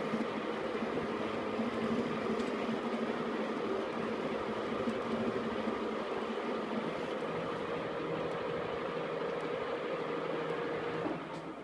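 KART E1N lathe running with a steady mechanical hum, switched off and winding down about a second before the end.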